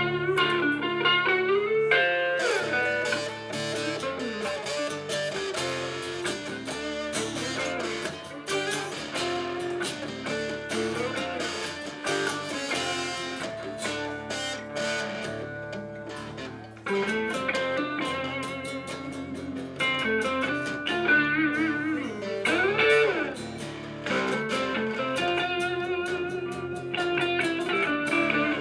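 Live band music: an instrumental break in a blues-tinged song, led by guitar, with notes that bend up and down in pitch.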